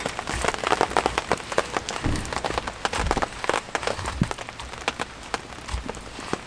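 Rain falling, with many irregular drops tapping sharply close by and a few heavier low thuds.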